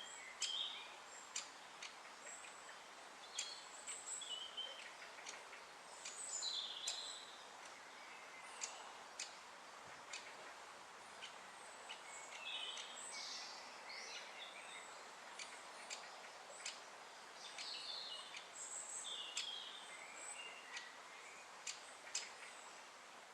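Birds calling and chirping in short scattered notes, with frequent sharp ticks, over a steady background hiss.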